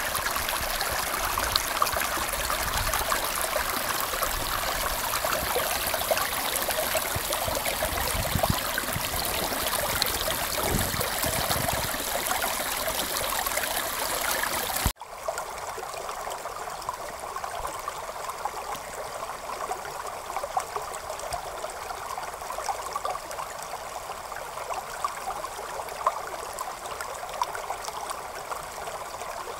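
Creek water running over rocks, a steady rushing babble. About halfway through it cuts suddenly to a quieter, lighter stretch of trickling water.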